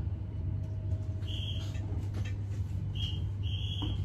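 Steady low rumble of a moving passenger train, heard from inside the carriage, with three short high-pitched whistle-like squeals: one about a second in and two close together near the end.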